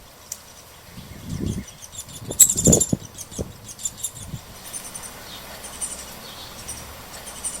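Young downy woodpecker begging for food: a run of many short, high-pitched chirps, thickest in the middle and second half. A few low thuds sound under them, the loudest about two and a half seconds in.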